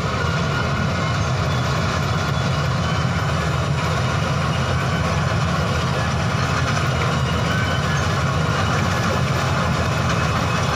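Combine harvester running steadily, its engine and machinery giving a continuous low, even noise that does not change in level.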